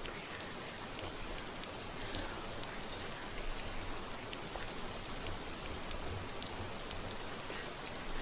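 Steady rain falling, an even hiss, with a few brief soft rustles near 2, 3 and 7.5 seconds in.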